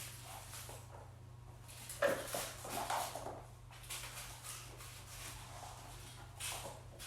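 A kitten meowing, a short bending call about two seconds in, amid light scuffling and rustling, over a steady low hum.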